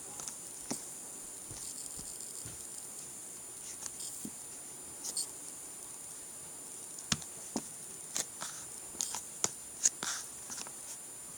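Calculator keys being pressed: a handful of short, sharp clicks, sparse at first and then coming in a quick run in the second half.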